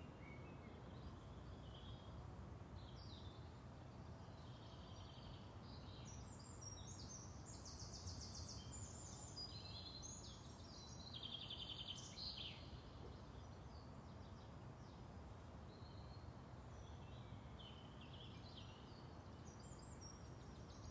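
Faint birdsong: several birds chirping and singing over a low, steady background hiss, busiest about midway and again near the end.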